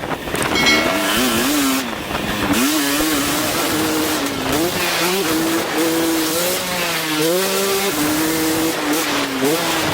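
Dirt bike's four-stroke single-cylinder engine (KTM 250 SX-F) revving hard under a riding rider's throttle. The pitch climbs, holds and falls several times as the throttle is worked and gears change.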